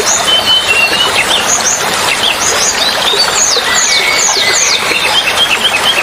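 Running water with small birds chirping and whistling over it: quick sliding notes throughout, and a fast string of short chirps in the second half.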